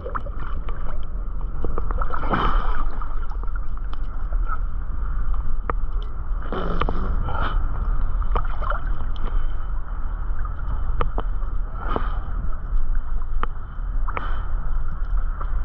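Boat under way on open water: a steady low rumble with water gurgling and sloshing, and scattered short knocks and splashes.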